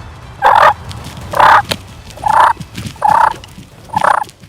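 Wild turkey calling: a series of five loud, evenly spaced calls, a little under a second apart.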